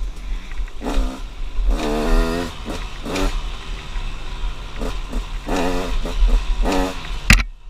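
2016 KTM 200 XC-W two-stroke dirt bike engine revving up and down repeatedly as the throttle is worked on the trail, over a steady low wind rumble on the helmet camera. A single sharp knock stands out near the end.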